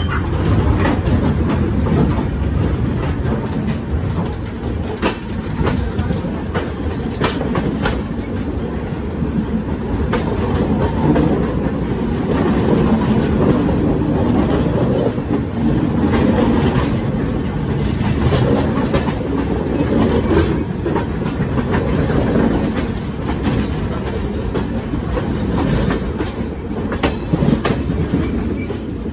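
Indian Railways passenger coaches rolling past close by on the next track: a loud, continuous rumble with the clickety-clack of wheels over rail joints.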